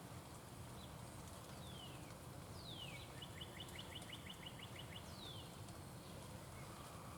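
A wild songbird singing: clear whistles sliding downward in pitch, three times, with a quick run of about ten short, evenly spaced notes in the middle. A steady low rumble runs underneath.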